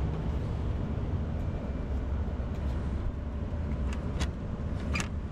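A vehicle running with a steady low rumble, and a few sharp clicks about four and five seconds in.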